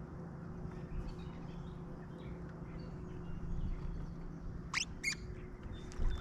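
Birds chirping faintly over a steady low hum, with two quick sharp rising chirps near the end.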